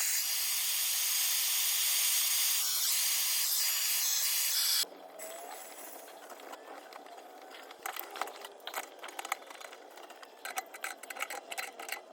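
Steady hiss of water rushing through an open valve in household plumbing, shut off abruptly about five seconds in. Light scattered clicks and taps follow.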